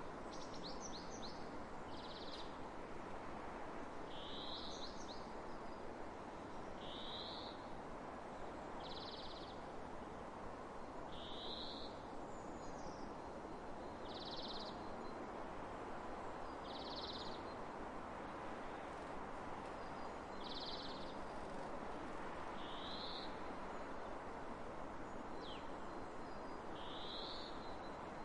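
A songbird gives a short, high, rising call about every two seconds, with a few fainter chirps from other birds, over a steady hiss of wind across open fields.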